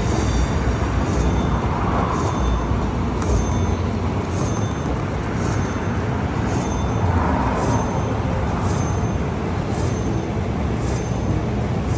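Slot machine bonus round playing short, high electronic chimes about once a second, over the steady din of a busy casino floor.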